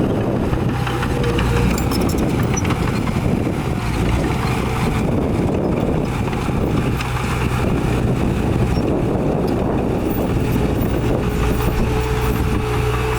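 Heavy diesel earthmoving machinery running steadily under load. A thin whine comes and goes over the engine.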